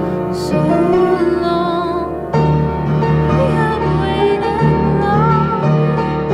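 Slow, gentle piano music, with a held melody line that wavers in pitch above the chords.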